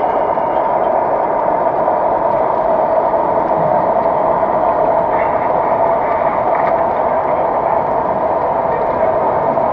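MTH model New York subway train running along the track: a steady, unbroken whirring rumble of its motors and wheels, with onboard running sound effects.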